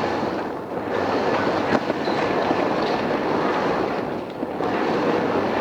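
Odakyu 2600 series electric train running along the line: a steady rumble of wheels on rail with one sharp knock about two seconds in.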